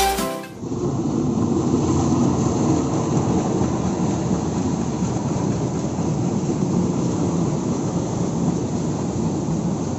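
Diesel-hauled passenger train rolling past: a steady rumble of the coaches' wheels on the rails. It begins about a second in as the music cuts off.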